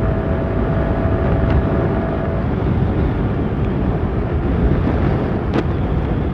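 Wind rushing over the microphone of a moving motorcycle, mixed with engine and road noise. A thin steady tone drops out about two and a half seconds in, and a single sharp tick comes near the end.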